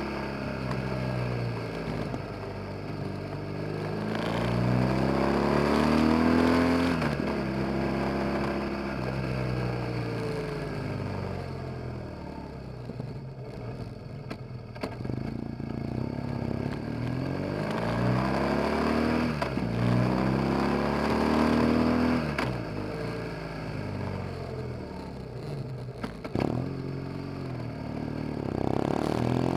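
BMW R 1200 GS flat-twin (boxer) engine under way, heard from a camera at the back of the bike. The revs climb and drop several times as it accelerates and changes gear or rolls off.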